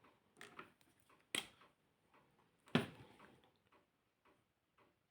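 A few faint, short clicks and taps, the sharpest about one and a half seconds in and the loudest near three seconds in, with near silence between them.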